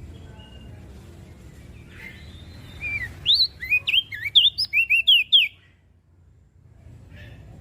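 Opior jambul (crested dark-eye) singing a quick burst of about a dozen sharp, sweeping chirps about three seconds in, lasting some two and a half seconds, over a low steady background rumble.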